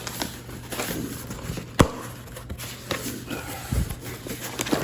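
Hands handling plastic toy-car packaging and a protector case: scattered light taps and rustles, with one sharp click about two seconds in.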